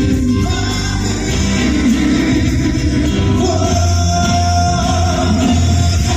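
Live pop band music with singing, loud and continuous, with a long held note in the middle.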